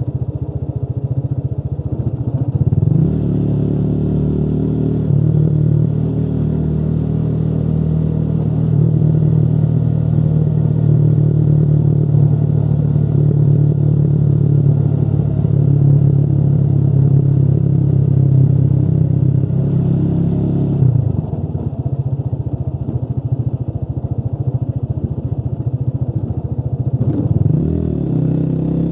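Motorcycle engine running while riding: the engine note climbs about three seconds in, holds steady, drops off at about 21 seconds as the throttle is closed, and rises again near the end.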